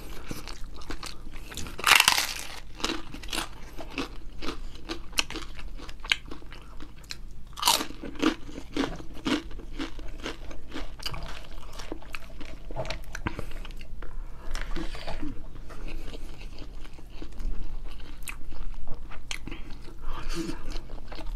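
A person chewing and crunching food close to the microphone, with many sharp crackly clicks throughout and louder crunches about two seconds in and again near eight seconds.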